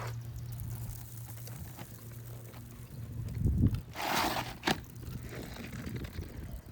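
Rustling and scuffing on an asphalt shingle roof, with a low thump about halfway through, a brief scrape just after and a sharp click, over a steady low hum.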